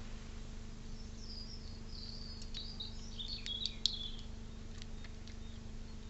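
A small bird chirping and twittering in a quick series of high notes for about three seconds, with a few sharp clicks among them, over a steady low electrical hum.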